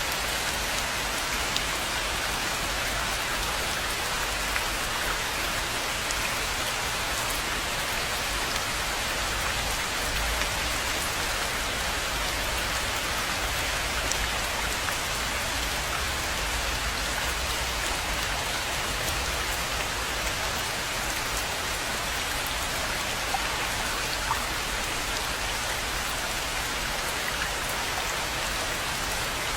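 Steady rain falling on a rainforest pond, an even hiss with scattered individual drops ticking through it.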